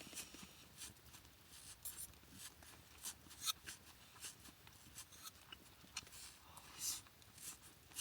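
Faint, scattered scrapes and light clicks of eating utensils against a bowl while someone eats a rice bowl, with a few louder scrapes in the second half.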